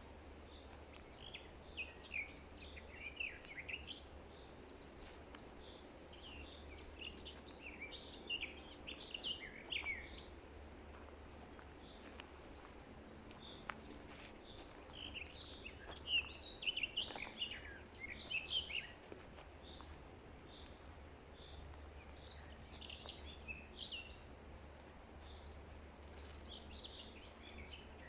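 Songbirds singing and chirping in a forest, in bursts of quick high trills and chirps, over a faint steady background hum.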